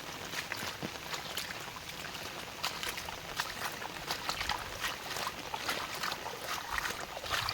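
Rainwater running and trickling through a flooded farm channel, a steady rushing hiss with many small irregular splashes.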